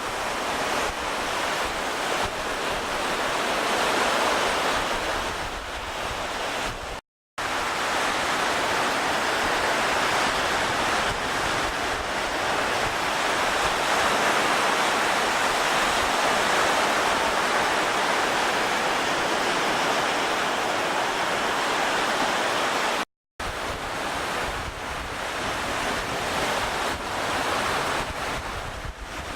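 Steady rushing of wind and waves, with wind buffeting the microphone as a low rumble. The sound cuts out completely twice for a moment, once about a quarter of the way in and again about three quarters of the way through.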